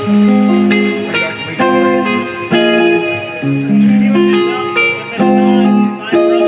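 Live band music, a guitar-led instrumental passage with sustained notes that change about every half second.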